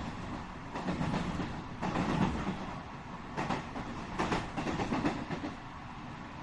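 Running sound inside a JR West 207 series 1000-subseries motor car at speed: a steady rumble from the wheels and body, with irregular clacks as the wheels cross rail joints.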